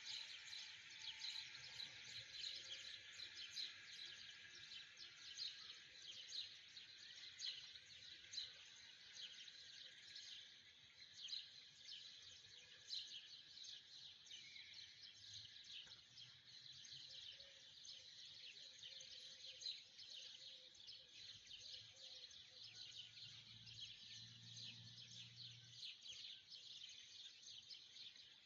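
Many small birds chirping together in a dense, faint, continuous chorus of short high chirps.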